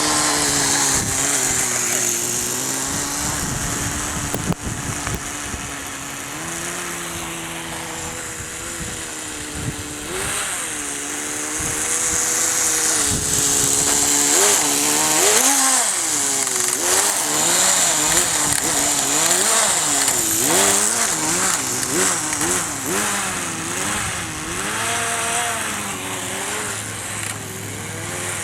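Small nitro glow engine of a Kyosho Nitro Blizzard RC snow crawler running with a strong high hiss. Its pitch is fairly steady at first, then rises and falls again and again through the second half as the throttle is worked.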